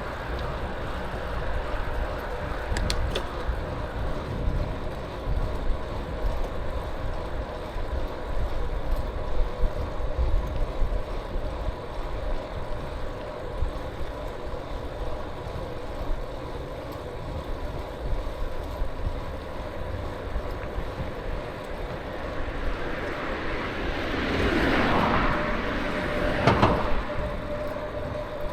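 Wind buffeting the microphone and road noise while riding a bicycle, a steady low rumble; near the end a passing vehicle swells and fades.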